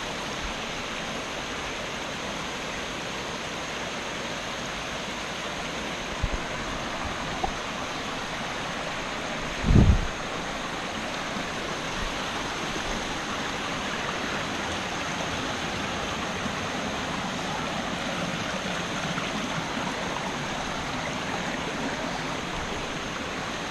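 Steady rushing of a mountain waterfall and its stream. A short low thump comes about ten seconds in.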